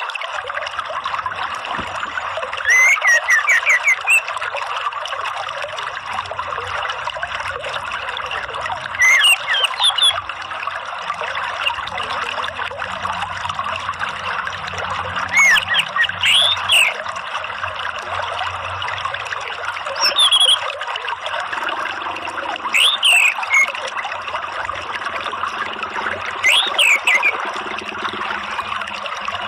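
Steady running water with orange-headed thrush calls over it: short rising-and-falling whistles in six brief clusters a few seconds apart.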